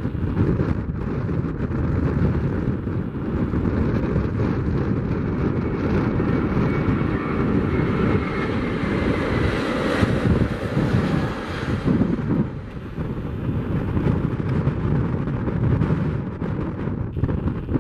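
Airbus A330-200 jet engines at takeoff power as the airliner rolls and climbs past, their whine swelling to its loudest about ten seconds in and then fading. Wind buffets the microphone throughout.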